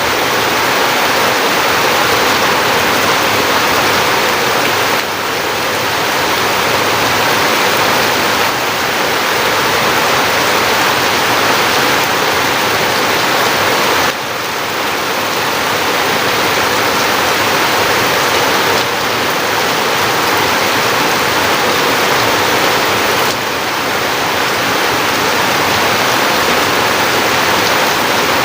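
Heavy rain pouring down steadily, a dense even hiss of water, with a few brief dips in loudness.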